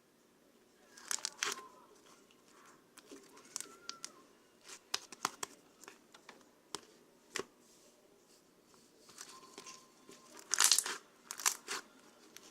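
Crinkling and rustling in irregular bursts, with sharp clicks scattered between them; the loudest bursts come about a second in and again near the end.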